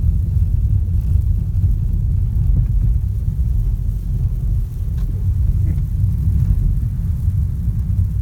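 Steady low rumble of a VW Golf driving, its road and engine noise holding even throughout.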